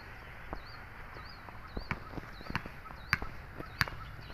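A bird repeating a short, wavering high note two or three times a second, over scattered sharp taps and clicks.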